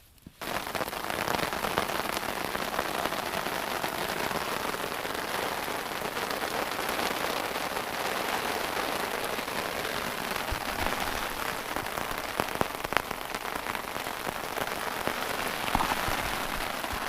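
Steady rain falling, a dense even patter with scattered louder drop hits. It cuts in suddenly about half a second in.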